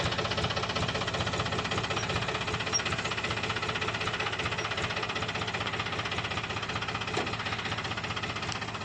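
Diesel tractor engine running steadily with an even, rapid chugging beat.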